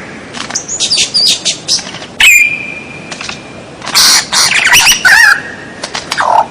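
White-rumped shama (murai batu) singing a varied, loud song of sharp whistles and quick sweeping notes. About two seconds in it holds one long whistle at a steady pitch, then breaks into fast trilled and chattering phrases from about four seconds in.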